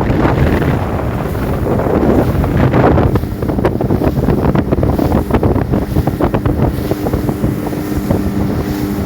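Wind buffeting the microphone, with many small clicks and knocks from about three seconds in and a steady low hum joining about seven seconds in.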